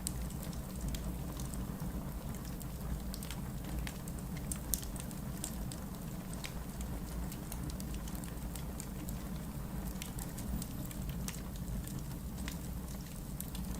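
Wood logs burning in a fireplace, crackling with irregular sharp pops over a steady low rumble. One pop about five seconds in is louder than the rest.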